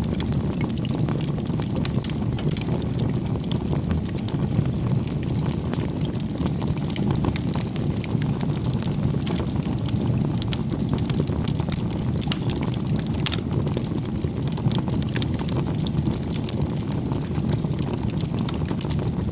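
Campfire crackling: a steady low rush of burning wood with frequent small pops and snaps throughout.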